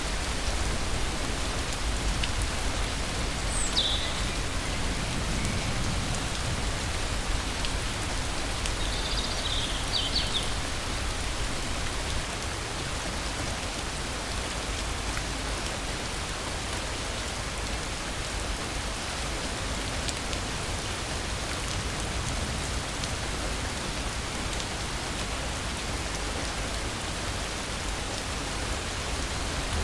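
Steady rain falling, with two brief high chirps about four and ten seconds in.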